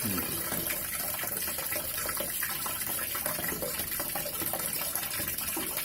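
Water gushing steadily from the inlet pipe into the wash tub of a twin-tub washing machine as it fills.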